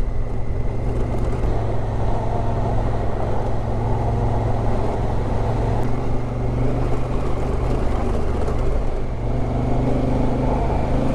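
Motorcycle engine running steadily at road speed, with small changes in pitch, over a constant rush of wind and tyre noise.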